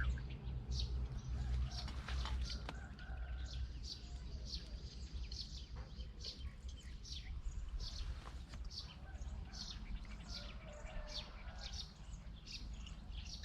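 A small bird giving short, high, repeated chirps, about one a second, over a low steady rumble.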